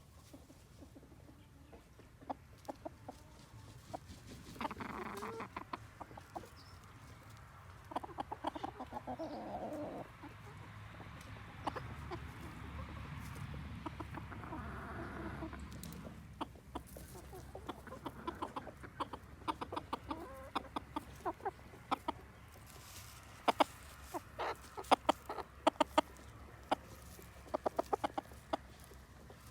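Bantam Silkie chickens clucking in low, intermittent calls. Short sharp clicks come in runs, loudest in the last third.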